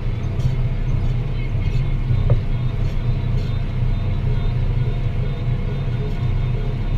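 Deutz-Fahr Agrotron 165 MK3 tractor's six-cylinder diesel running steadily with a low drone while pulling a plough. There is one brief click a little over two seconds in.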